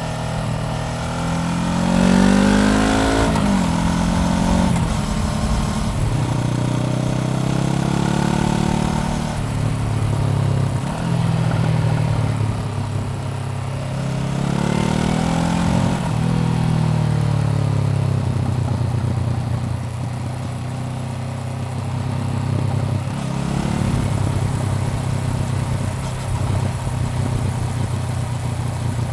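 Honda CBR400R motorcycle engine while riding: it revs up through the gears twice, with short breaks at the shifts, and settles to a steady cruise in between.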